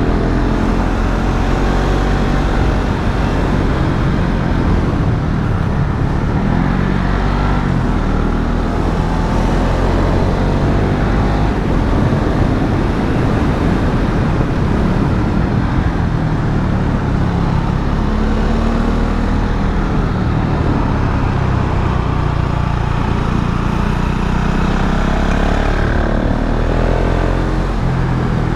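KTM Duke 690 single-cylinder engine pulling through the gears: the revs climb and drop repeatedly with the throttle and gear changes, and climb in steep sweeps near the end. A constant rush of wind and road noise runs under it.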